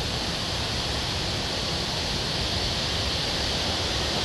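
Steady rushing roar of Millstream Falls' falling water, growing slightly louder.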